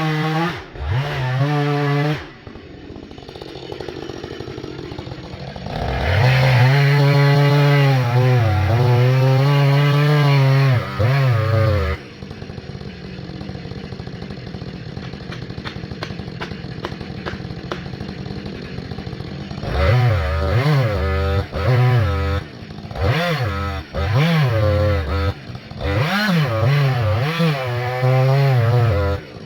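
Gas chainsaw running at high revs, its pitch sagging and recovering as it works, dropping back to idle about two seconds in and again from about twelve seconds. From about twenty seconds it goes through a run of quick rises and falls in pitch.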